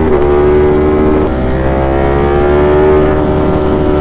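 A 200-plus-horsepower motorcycle engine under way, its note dipping briefly near the start and then rising slowly and steadily as the bike accelerates.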